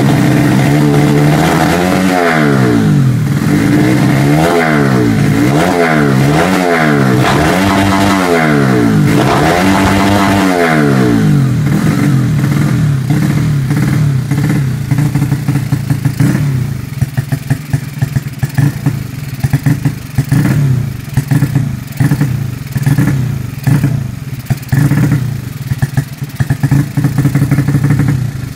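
Modified Honda Supra underbone motorcycle engine, fitted with valves from a Honda Sonic 150, revved in about five quick blips that rise and fall over the first ten seconds or so. It then settles to a rough, uneven idle with a choppy beat.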